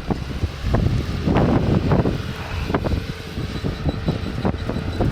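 Bobcat T140 compact track loader running with a steady low engine hum, with wind gusting and buffeting the microphone in irregular knocks.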